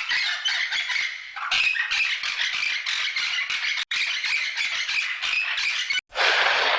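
A flock of birds squawking and chattering, many harsh calls overlapping densely. About six seconds in it cuts to a different, hissing sound.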